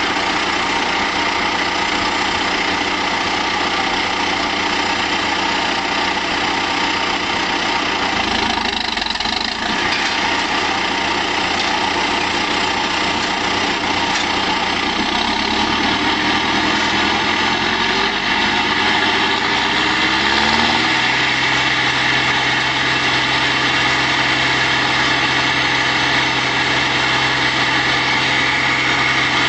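Ferrari Vega 95 DS compact tractor's engine running a TP 200 wood chipper steadily. About halfway through, the engine speed rises over several seconds and then holds at a higher pitch.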